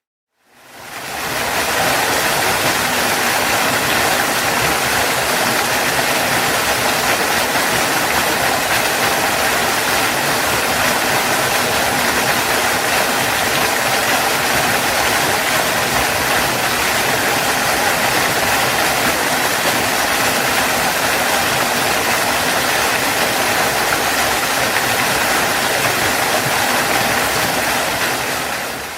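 Waterfall: a steady, even rush of falling water. It fades in at the start and fades out near the end.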